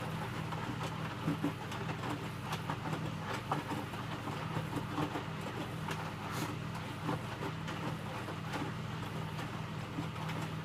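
Electrolux W455H commercial washing machine running its wash cycle: a steady motor hum with scattered light clicks and knocks as the load turns in the drum.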